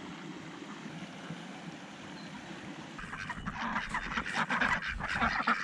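Ducks quacking, a busy run of calls that starts and grows louder about three seconds in, over a steady rush of water from a small stretch of rapids.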